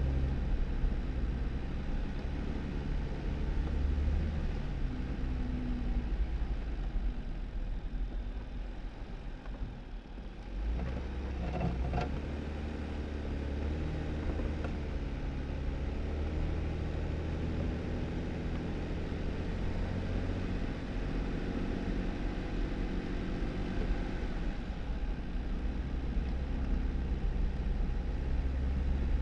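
2018 Jeep Wrangler driving slowly on a snow-covered back road: a steady low engine hum under tyre and road noise. The engine eases off briefly about a third of the way in, with a few light knocks just after.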